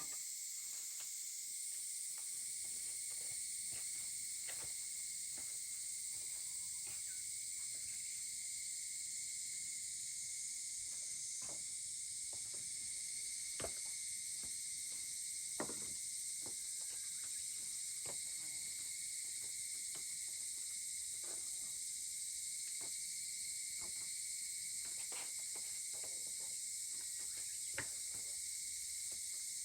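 Wood fire crackling, with scattered sharp pops every few seconds, over a steady high-pitched insect chorus.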